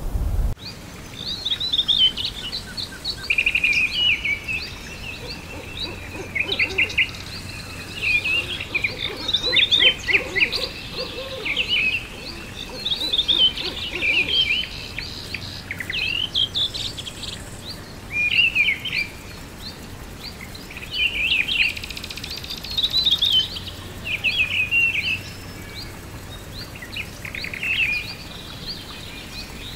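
Several birds singing in short, repeated chirping and trilling phrases, one after another every second or two, over a faint steady background.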